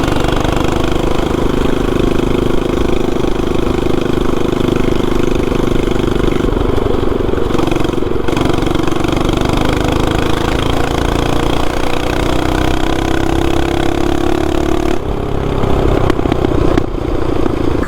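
Small petrol engine running continuously, its pitch drifting slowly up and down, a little louder in the last few seconds.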